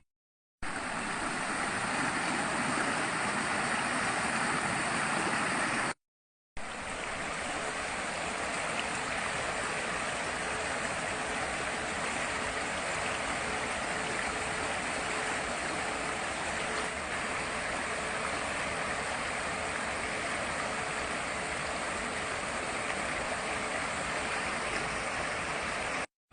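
Fast-flowing water rushing steadily, as of a storm-swollen stream or canal, cut off briefly twice near the start.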